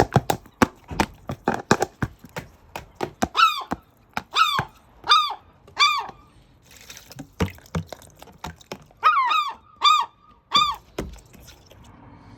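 Gull calls: short, arched squawking notes, four spaced about a second apart and then a quicker bunch of five a few seconds later. Before them comes a quick run of sharp clicks and taps.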